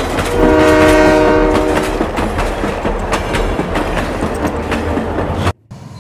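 A train horn sounds a chord for about a second and a half, over the steady rumble and clickety-clack of train wheels running on rail. The sound cuts off abruptly near the end.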